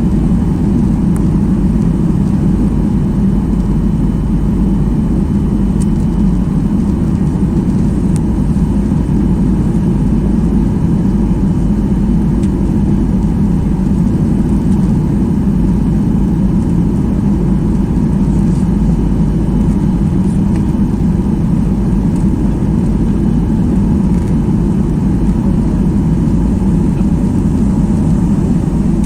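Steady roar inside the cabin of a Boeing 737-800 in flight: engine and airflow noise, even throughout, with a faint steady whine above it.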